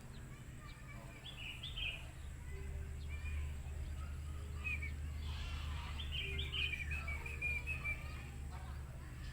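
A small bird chirping in short twittering phrases, the longest a run of quick chirps past the middle, over a steady low background hum.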